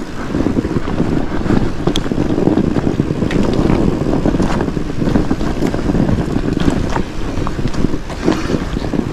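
Fat bike's studded tyres rolling downhill through snow: a steady rumbling crunch with wind on the microphone, and scattered sharp clicks and knocks as the bike goes over bumps.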